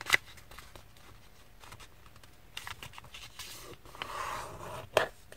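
A thin sheet of paper being folded and creased by hand: rustling and a scraping slide along the fold, with a few short sharp crinkles.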